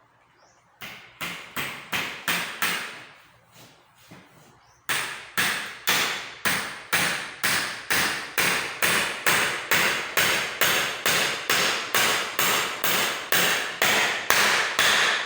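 Hammer blows in repair work on a school chair: a short run of strikes, a pause of about two seconds, then a long, steady run of strikes at about two and a half a second.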